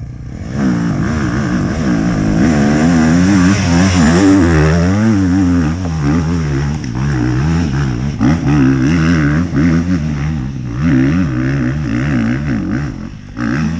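Off-road dirt bike engine revving hard under load on a muddy climb, its pitch repeatedly rising and falling as the throttle is worked.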